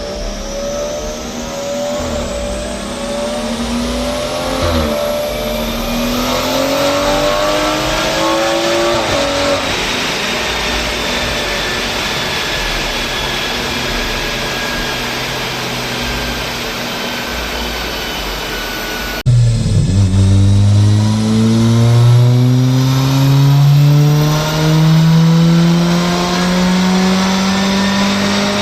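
Car engines revving and accelerating, their pitch rising and falling over a rushing noise. About two-thirds of the way through the sound cuts suddenly to a louder engine that climbs steadily in pitch.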